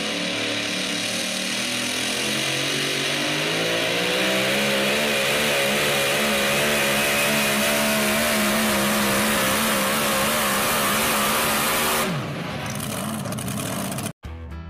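Super modified four-wheel-drive pulling truck's engine at full throttle under load, revs climbing and then holding high with a wavering pitch. About twelve seconds in the throttle comes off and the engine note falls away.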